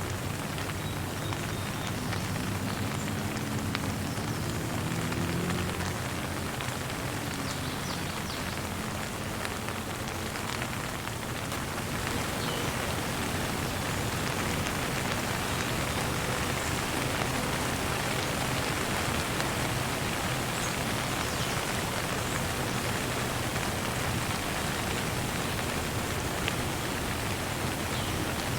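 Steady rain falling, an even patter of raindrops on surfaces.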